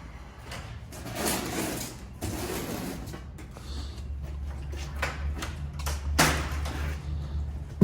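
Auto repair shop work noises: a few bursts of hissing or rustling noise, and a steady low hum that starts partway through. Music plays in the background.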